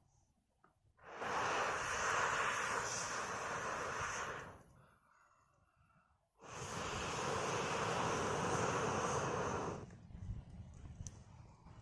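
Two long blows through a fire-blowing pipe into a bonfire, each a rushing blast lasting about three seconds, separated by a short pause. They fan the burning wood.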